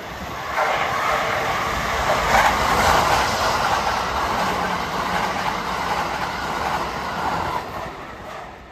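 Kintetsu 22600-series Ace and 22000-series ACE limited-express train passing through the station at speed without stopping: the rush of wheels on rail and running gear swells about half a second in, holds, and fades away near the end.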